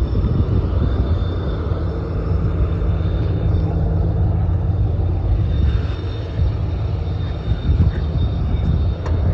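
Locomotive of a stationary passenger train running: a steady low rumble with a thin, steady high whine over it.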